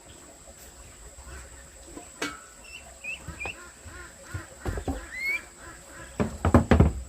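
Birds calling in short chirps, with a run of knocks and thumps growing louder toward the end.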